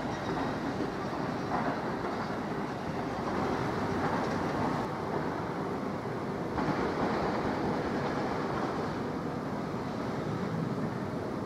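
Electric multiple-unit trains running along the track: a steady rumble of wheels on rail from a Class 360 Desiro, which changes about six and a half seconds in as a Class 345 Aventra approaches.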